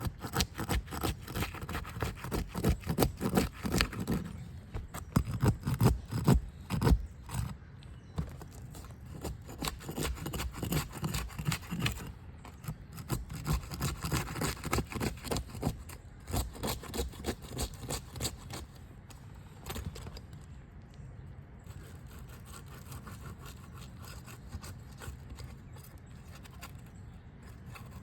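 Rapid scraping and crackling of a roof snake worked under 3-tab asphalt shingles, breaking their adhesive seal strips. Busy and loud for the first half, then sparser and quieter after about sixteen seconds.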